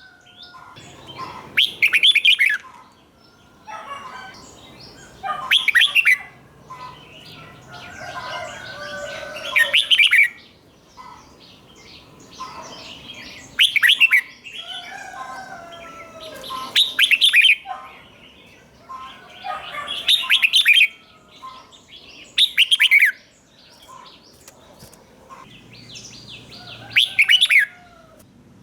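Red-whiskered bulbul singing: eight loud, short, whistled song phrases, about one every three to four seconds, with softer chirping between them.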